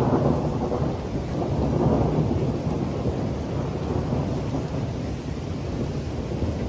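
Rolling thunder rumbling over steady rain. The rumble swells about two seconds in and then slowly dies away.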